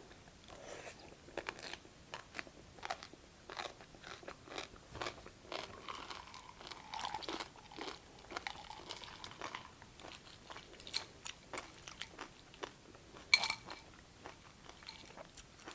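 Close-up chewing of crunchy cucumber from a cold cucumber soup: a run of irregular, soft crunches, with one sharper crunch about thirteen seconds in.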